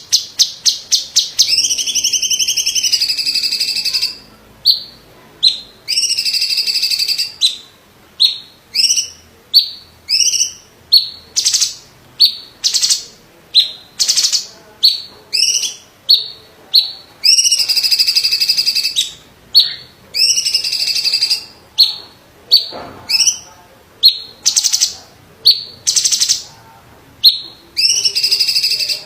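Cucak cungkok, a kind of cucak ijo (green leafbird), singing loudly. Long buzzy trilled phrases alternate with short sharp upward-sweeping 'shot' notes, the shots coming about one a second, with a rapid stuttering run of notes near the start.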